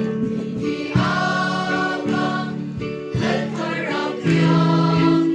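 A group of voices singing a slow song together in chorus, holding long notes that change about once a second.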